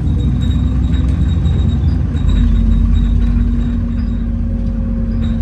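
Alexander Dennis Enviro400 double-decker bus under way, heard from inside: a deep engine and drivetrain rumble with a steady hoover-like whine that sets in about two seconds in.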